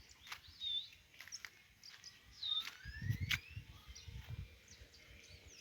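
Faint birds calling: a few short chirps and a couple of rising whistles, over quiet rural ambience with scattered soft clicks and some low thuds around the middle.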